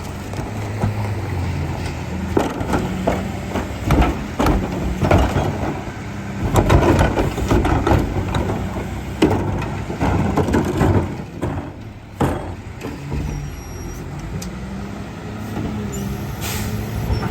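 Garbage truck engine running, with repeated clanks and thumps of trash being loaded, and a short air-brake hiss near the end.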